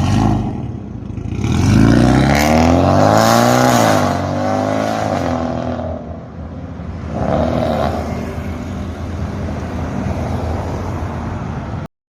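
Toyota GT86's flat-four engine revved through an aftermarket full-system valved exhaust. It climbs into a long high rev, drops back, blips once more, then settles to a steady idle. The sound cuts off suddenly near the end.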